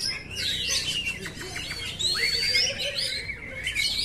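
Oriental magpie-robin (kacer) singing: a varied run of clear whistles, rising and falling slurred notes and quick chattering notes.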